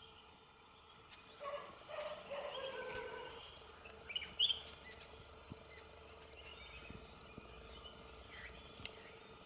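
Faint wild bird calls: a drawn-out, falling call starting about a second and a half in, then short high chirps around four and a half seconds and again near the end.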